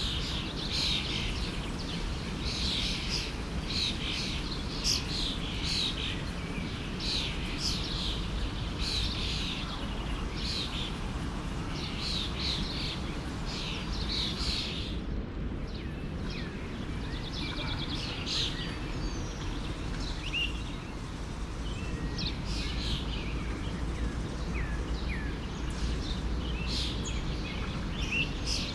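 Forest stream running steadily, with many birds chirping over it in quick repeated phrases; the chirping breaks off briefly about halfway and is sparser afterwards.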